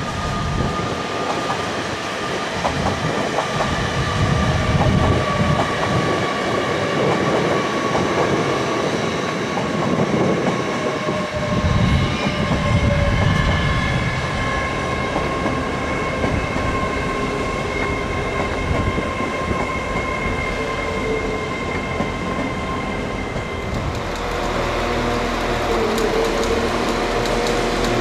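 A train running through the station: a rumble of wheels on the rails with steady high squealing tones over it. Near the end the rumble gives way to a steadier low hum.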